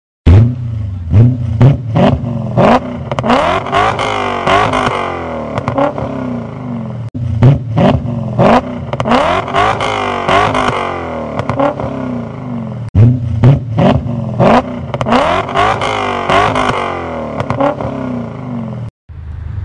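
BMW E39 M5's 4.9-litre V8 through an Eisenmann exhaust, revved in sharp throttle blips with pitch rising and falling. The same six-second recording plays three times and cuts off shortly before the end.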